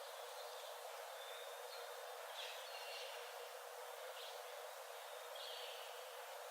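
Faint forest birds calling: thin, high notes and a few short brighter calls, over a steady background hiss.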